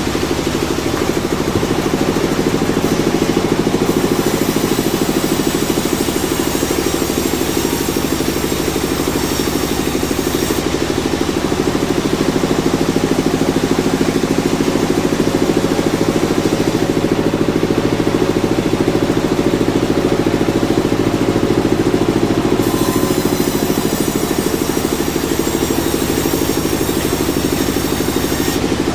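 Sawmill machinery running with a steady, engine-like drone, its level even throughout. The high hiss above it changes about ten seconds in and again about twenty-two seconds in.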